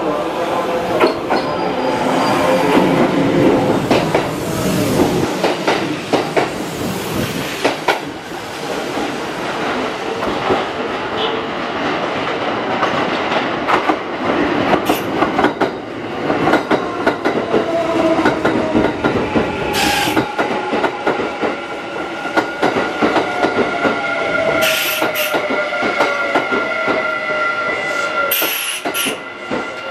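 Kintetsu electric trains running through a station: wheels clicking over rail joints and squealing, then a motor whine falling in pitch as a train slows to a stop. There are short bursts of high hiss about two-thirds of the way in and again near the end.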